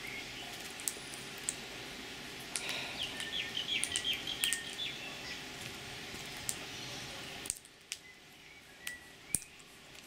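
Small birds chirping in a quick run of short calls, with scattered sharp clicks. A steady background hum cuts off about seven and a half seconds in.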